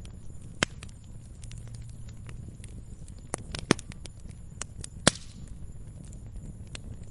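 Wood fire crackling in a fireplace: irregular sharp pops and snaps over a soft, steady low rumble of the flames. The loudest pops fall about half a second in, near four seconds and just after five seconds.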